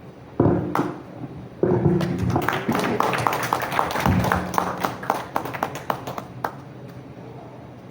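Scattered clapping from a small audience: a few people clapping unevenly for about four seconds, dying away near the end. It is preceded by a couple of low thumps.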